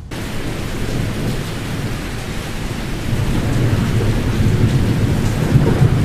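Storm of rain and low rolling thunder, cutting in suddenly and growing louder from about halfway through.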